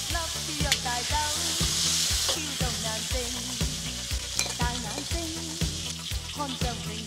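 Hairy crabs sizzling in a black iron wok while a metal ladle stirs and scoops them, with light background music with a steady beat underneath.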